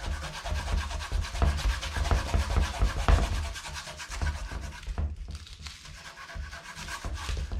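Rubber cleaning eraser stick scrubbed rapidly back and forth over a Onewheel Pint's grip-textured stomp pad, a dense rubbing scrape with low handling bumps. The scrubbing eases off about five seconds in and picks up again near the end.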